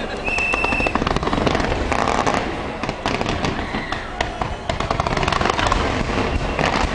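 Fireworks display: a dense, continuous run of bangs and crackles, with a short high whistle just after the start.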